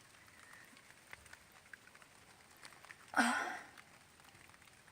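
Faint background with scattered small ticks; about three seconds in, one short breathy sound with a brief pitched start, like a person's voiced exhale.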